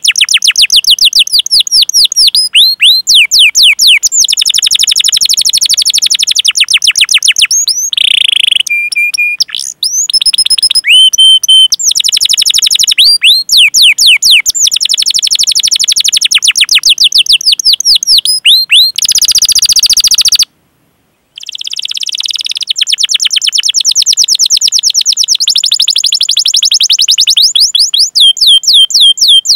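Domestic canary singing a long, fast rolling song of rapid 'cuit cuit' chirps, each a quick downward-sweeping note repeated many times a second. A few short held whistled notes break in about eight to eleven seconds in, and the song cuts off for about a second roughly two-thirds through before resuming.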